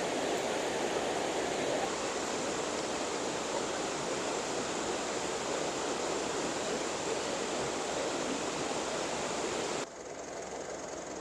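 Steady rush of a fast mountain river, water running over rocks. About ten seconds in the sound cuts abruptly to a quieter, thinner rush.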